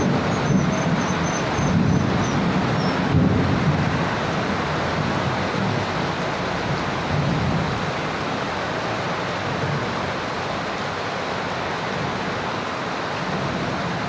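Steady rain with a low rolling thunder rumble that is strongest in the first few seconds and dies away, leaving the even hiss of the rain.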